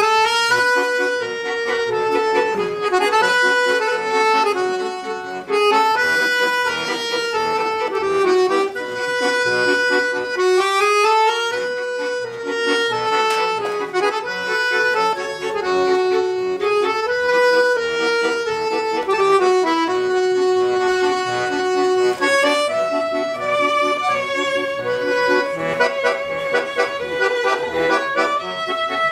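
Accordion music: a melody of held and stepping notes over sustained chords, moving somewhat higher in pitch about two-thirds of the way through.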